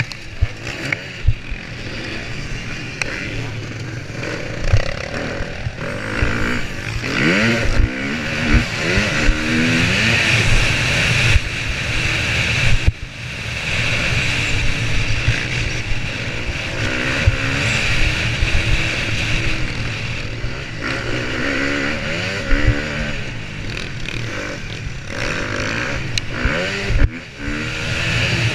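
Motocross bike engine revving hard and repeatedly climbing in pitch through the gears, with sharp knocks scattered throughout. The throttle is shut briefly about 13 seconds in and again near the end.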